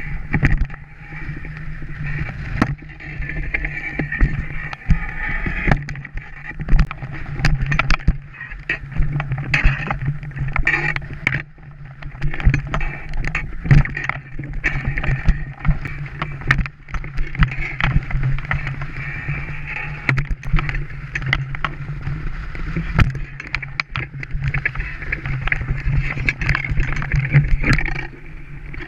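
Strong wind buffeting the microphone in gusts: a heavy rumble that rises and falls, with frequent short knocks and rattles over it.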